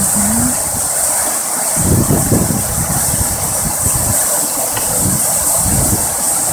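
Waterfall's steady, loud rush of falling water, a hiss brightest in the high range, with uneven low rumbles underneath.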